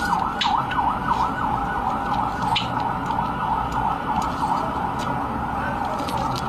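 Many birds calling together: dense, overlapping quick up-and-down chirps, with scattered sharp clicks among them.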